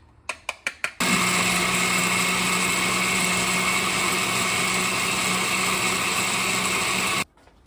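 Countertop blender pureeing boiled guajillo and ancho chiles, tomatoes and broth into birria sauce: a few quick clicks, then the motor runs steadily for about six seconds and cuts off suddenly.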